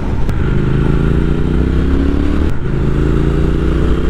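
Motorcycle engine accelerating hard through the gears: its pitch climbs steadily, drops at a gear change about two and a half seconds in, then climbs again.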